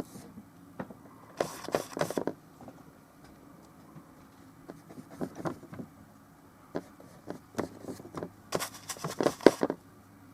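Oil-painting brush scrubbing and dabbing paint onto the painting surface: two clusters of quick scratchy strokes, about a second and a half in and again near the end, with scattered lighter taps between.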